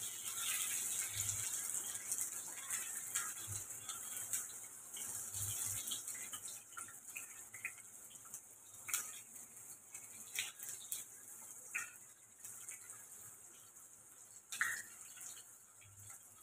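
Onion and capsicum pieces sizzling in hot oil in a wok, with a wooden spatula scraping and knocking against the pan as they are stirred. The sizzle eases off over the second half.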